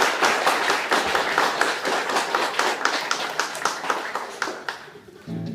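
Hands clapping in quick, even succession, about six claps a second, fading away near the end.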